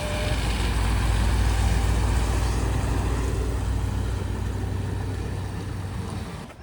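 Motor vehicle engine running steadily, a low rumble that eases off slightly toward the end and cuts off abruptly.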